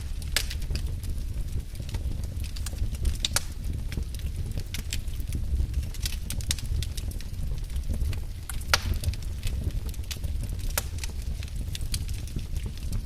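Wood fire burning in a fireplace: a steady low rumble of the flames with frequent irregular sharp crackles and pops, one of the loudest snapping a little before the last third.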